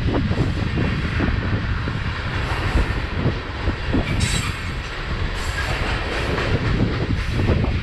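Freight train cars rolling past at track side, with a steady rumble and wheels clicking over the rail joints; a brief high hiss or squeal comes about four seconds in.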